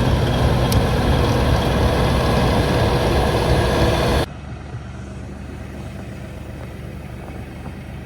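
Engine running loudly and steadily. About four seconds in it cuts off abruptly to a quieter, steady engine hum.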